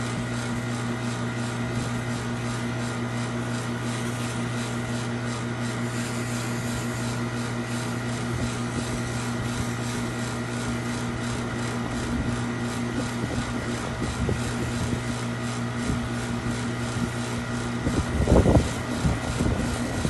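Steady machine hum: a constant low drone with several fixed tones above it, with a brief louder rumble about two seconds before the end.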